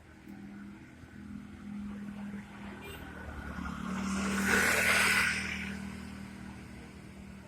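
A motor vehicle passing on a wet road: a steady engine hum with tyre hiss that swells to a peak about five seconds in, then fades away.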